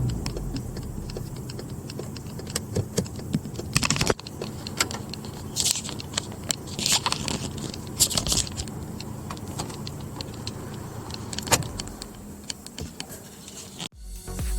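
Volkswagen Golf V GTI's BWA 2.0-litre turbocharged four-cylinder engine idling steadily, with clicks and a metallic jangle over it and a few short hissing rattles between about four and eight seconds in.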